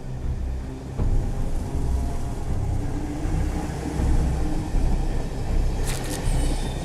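High-speed passenger train running past, a steady deep rumble and rush of air and wheels, with a short hiss near the end.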